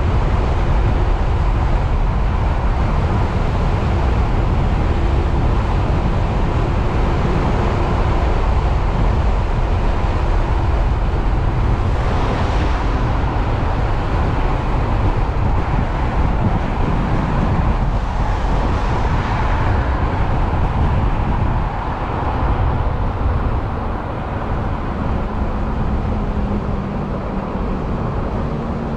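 Wind rushing over the microphone and road noise while riding a 72-volt electric motorcycle, with faint steady whining tones underneath. It eases a little about three-quarters of the way through.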